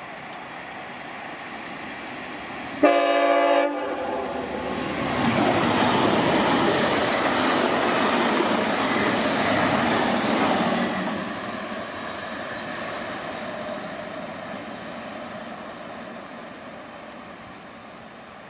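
A train sounds one short horn blast, under a second long, then passes, its running noise building to a peak for several seconds before slowly fading away.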